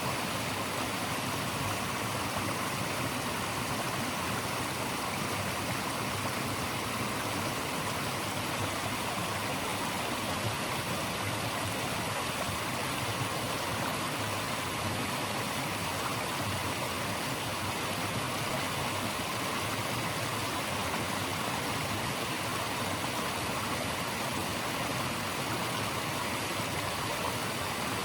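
Flowing water of a stream rushing steadily, an even hiss that does not change.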